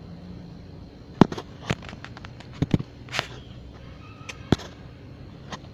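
Footsteps through dry brush: irregular crunches and snaps, about eight spread over a few seconds.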